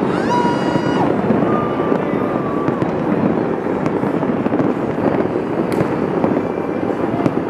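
Fireworks popping and crackling over the steady noise of a large street crowd, with a couple of short held high tones near the start.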